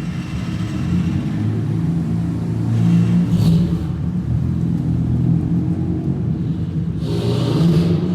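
A car engine running, with two louder surges about three and seven seconds in.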